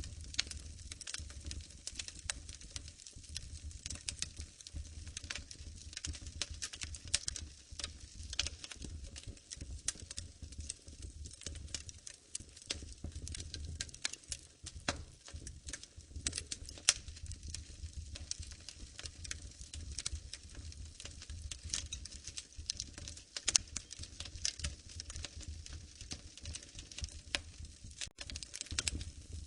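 Wood fire crackling in a fireplace: a continuous stream of small pops and snaps over a low rumble of the flames, with a few louder pops.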